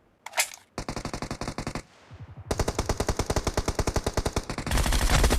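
Video game automatic gunfire in rapid bursts: a short burst about a second in, then a longer sustained burst from about two and a half seconds. Heavier, deeper firing joins near the end.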